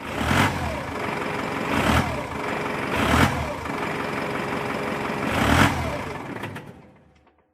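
Big-rig truck engine sound effect running, with four louder bursts, then fading out near the end.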